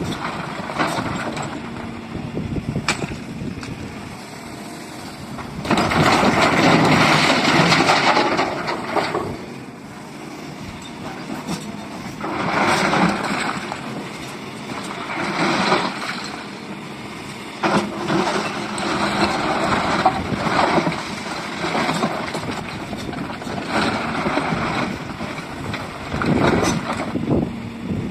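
SDLG excavator working: its diesel engine runs steadily and swells in repeated loud surges of a few seconds each as the hydraulics take load, with scattered knocks and clatter.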